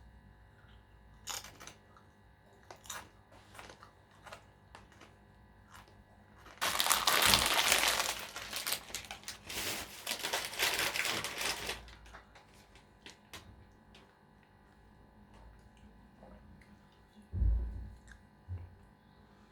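Food packaging, a wrapper or crisp bag, being crinkled and crumpled for about five seconds in the middle, with scattered small clicks and taps before and after. A short low thump near the end.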